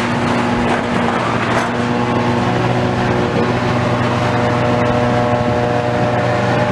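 Heavy diesel demolition machinery running steadily, its engine a constant hum with a noisy rattle over it.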